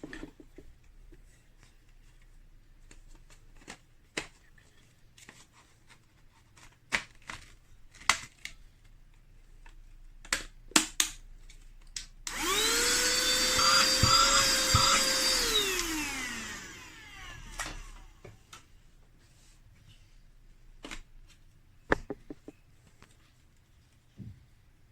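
Scattered clicks and knocks, then about halfway through, a SIMWAL handheld cordless vacuum cleaner's motor switches on. It whines quickly up to a steady pitch with a loud rush of air and runs for about three and a half seconds. It then spins down with a falling whine, followed by a few more clicks.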